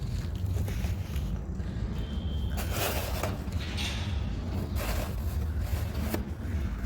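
Dry, crunchy material being crushed and crumbled by hand, in a few separate crunches over a steady low rumble.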